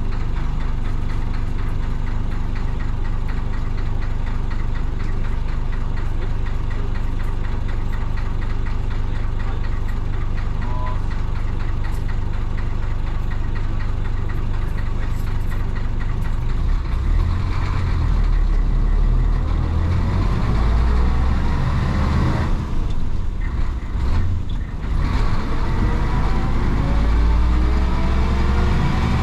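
The 1966 Isuzu BXD30 bonnet bus's DA640 diesel engine, running steadily at first, then louder from about halfway through as the bus pulls away. The engine note breaks off twice briefly as gears are changed, then rises steadily near the end as the bus accelerates.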